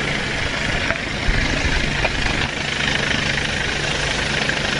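Steady engine drone with a constant low hum and a hiss-like band above it, with a few faint ticks.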